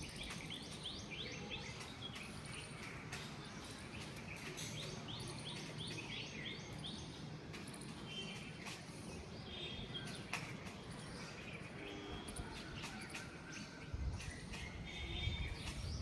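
Small birds chirping outdoors: quick runs of short rising chirps, about four a second, come early and again a few seconds later. There are scattered sharp clicks, and a low rumble swells near the end.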